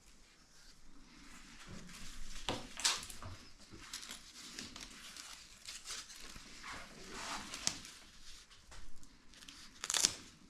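Hands working with material, crinkling and rustling irregularly, with a few sharp clicks and snaps. The loudest snap comes near the end.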